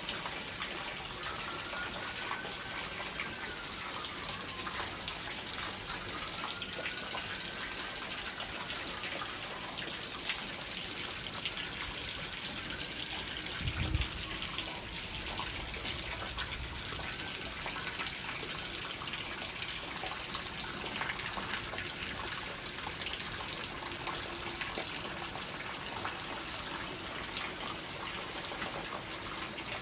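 Heavy thunderstorm rain pouring steadily, with wind, as an even rushing hiss. A brief low thump comes about 14 seconds in, and faint rising-and-falling tones can be heard in the first several seconds.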